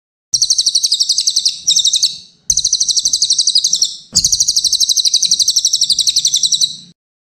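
Brown cililin singing a fast, high trilling song in three long phrases with short breaks between them, ending about a second before the end.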